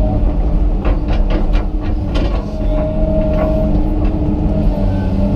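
Komatsu PC200 excavator's diesel engine running steadily under work, with a brief whine around the middle. A series of sharp cracks and knocks comes in the first half, and another near the end.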